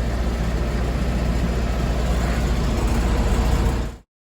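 Farm tractor's engine running steadily under load, heard from inside the cab, with a strong low drone; the sound cuts off abruptly near the end.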